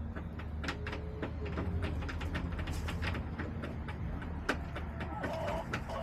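Chickens pecking, giving irregular sharp taps, with a couple of soft low hen clucks about a second in and near the end, over a steady low hum.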